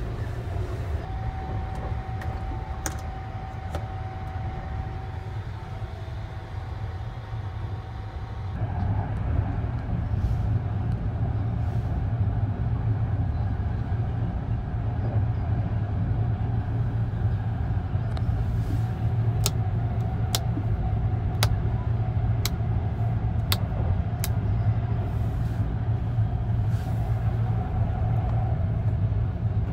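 Steady low rumble of the Sunrise Izumo sleeper train running, heard from inside a sleeper compartment; it grows louder about nine seconds in. A run of about six sharp clicks, roughly a second apart, comes about two-thirds through: switches on the compartment's control panel being pressed.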